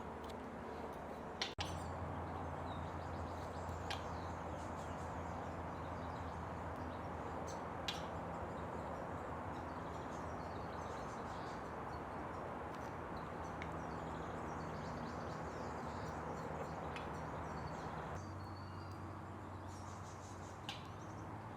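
Steady outdoor background hiss with a low hum under it, broken by a few faint, scattered bird chirps and small clicks.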